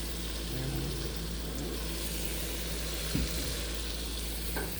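Chicken, onions and bell peppers sizzling in a frying pan at medium-low heat, over a steady low hum. A light knock sounds about three seconds in and another near the end.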